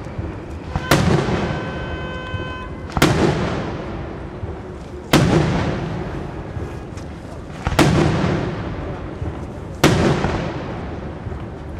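Daylight fireworks: aerial shells bursting overhead in five loud bangs, about two seconds apart. Each bang echoes and fades away before the next.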